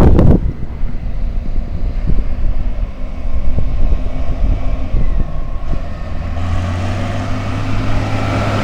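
Tractor engines running with a low rumble; from about six and a half seconds one engine's steady note comes to the fore.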